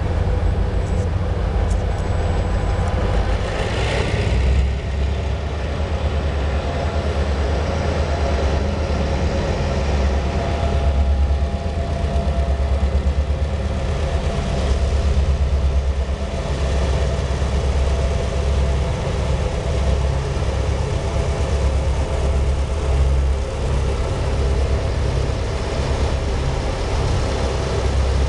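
Freight train locomotive's heavy engine running with a steady deep throb.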